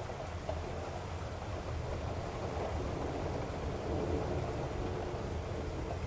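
Steady rumbling noise, deepest in the low end, without breaks or distinct events, like strong wind.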